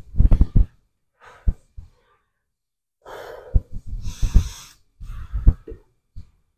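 A man breathing hard, several loud gasping breaths in separate bursts, with low knocks mixed in, close to the microphone.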